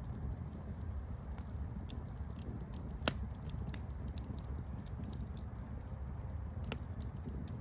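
Wood campfire burning with a low steady rumble of flame and scattered sharp crackles and pops, the loudest pop about three seconds in.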